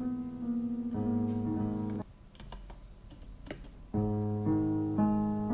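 Slowed, resampled piano-like chord sample played back with a delay effect: sustained chords that stop about two seconds in and start again about four seconds in. A few sharp computer keyboard or mouse clicks sound in the gap.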